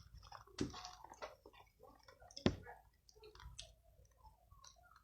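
A person chewing food with the mouth open, making irregular soft mouth clicks and smacks. One sharper smack comes about halfway through.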